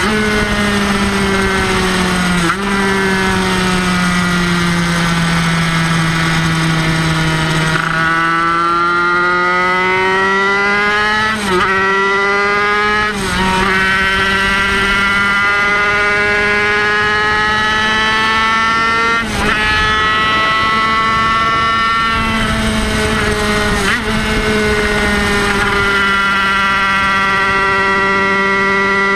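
Kreidler Van Veen 50cc racing motorcycle's single-cylinder two-stroke engine at high revs on track, heard from on board. Its high buzzing pitch sags and then climbs back, and it breaks briefly about five times as gears are shifted.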